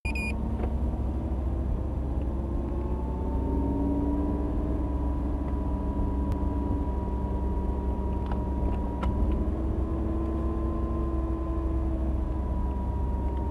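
Car engine running steadily: a low rumble with a humming tone that drifts slightly up and down in pitch, and a few faint clicks.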